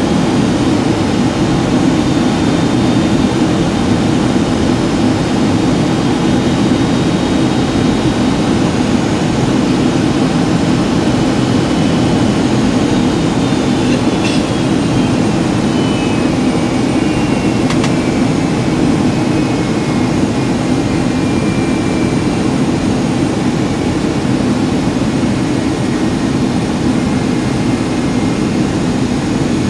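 Steady cabin roar of a Boeing 757-200 in flight: engine and airflow noise. About halfway through, a faint whine slowly falls in pitch, and there are two faint clicks.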